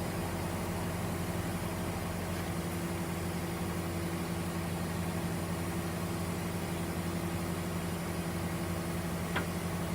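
Vehicle engine idling steadily, an even low hum with no change in speed.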